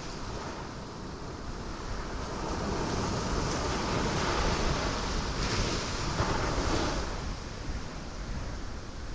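Ocean waves crashing on rocks: a continuous rushing wash that builds over the first few seconds, peaks in the middle as a wave breaks, and eases off near the end.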